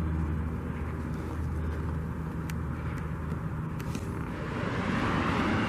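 Vehicle noise: a steady low engine hum, with a rushing sound that swells about four seconds in as a vehicle approaches.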